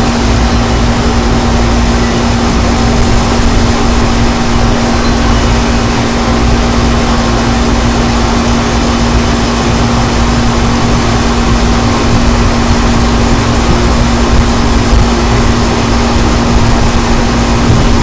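Strong wind buffeting the microphone: a loud, steady rush with a heavy low rumble, over a constant hum.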